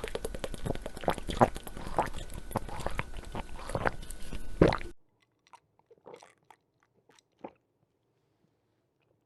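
Close-up crunchy chewing: dense, crackling crunches and bites, cut off abruptly about halfway through, followed by a few faint clicks.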